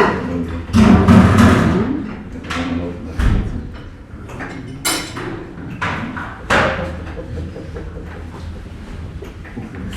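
Breakfast-room clatter: a run of knocks, bangs and clinks from crockery, trays and furniture being handled. The loudest stretch is about a second in, with sharp knocks again around the middle and a faint hubbub of voices underneath.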